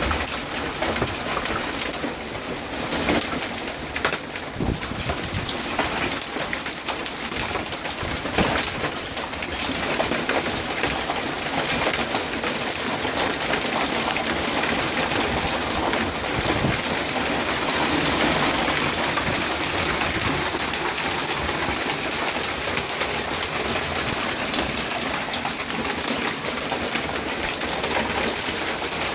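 Hail pelting down in a dense, continuous patter of hard little impacts, growing a little heavier about ten seconds in.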